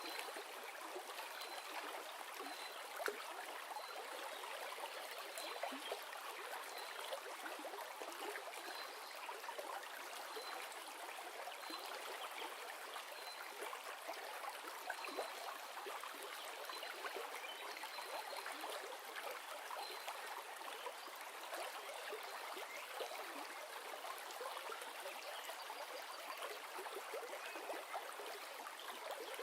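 Steady sound of a flowing river, an even rush of water that does not change.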